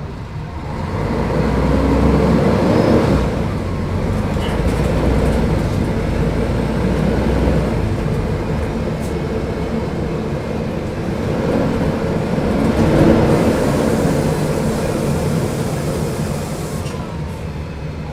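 Diesel engine of a Mercedes-Benz O500UDA bus running under load, swelling in loudness about two seconds in and again past the middle, then easing near the end.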